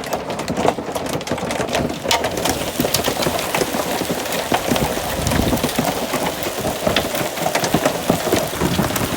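Hailstones pelting down: a dense, steady clatter of sharp ticks over a hiss, thickening a couple of seconds in.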